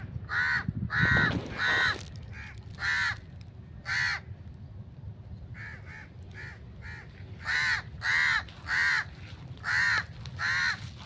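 Large black birds giving harsh, crow-like cawing calls, about a dozen short calls in a row with a quieter lull around the middle. The title takes it for very angry, agitated calling.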